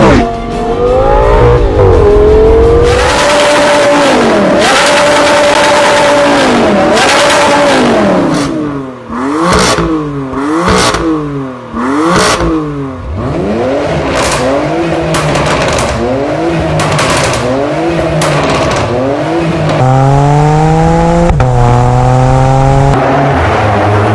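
Car engine revving through an aftermarket performance exhaust, with repeated quick blips that rise and fall in pitch. Sharp crackles come through the middle, and a longer rise in revs comes near the end.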